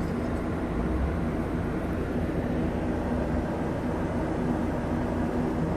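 Steady vehicle rumble with a low hum, like a car or other motor vehicle running or driving.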